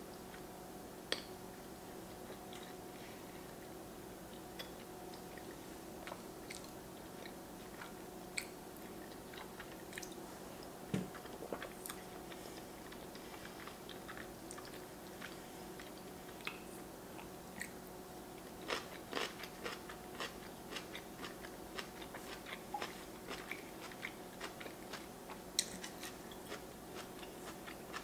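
Close-miked chewing of raw yellowtail sashimi strips in spicy sauce: soft wet mouth clicks and smacks, coming thicker in the second half, over a faint steady hum.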